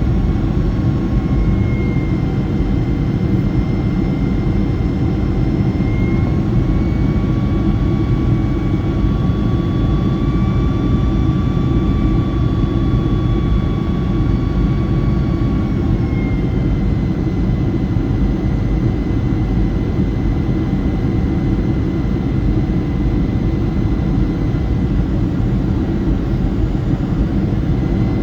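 Boeing 757-200's jet engines running, heard inside the cabin as a steady loud rumble with a high whine. The whine rises slightly in pitch about six seconds in and falls back about sixteen seconds in as the engine power changes.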